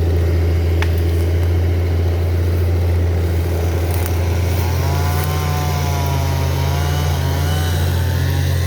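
John Deere 848H grapple skidder's diesel engine running steadily with a strong low hum. About five seconds in, a higher whine starts to waver up and down in pitch as the machine works under load.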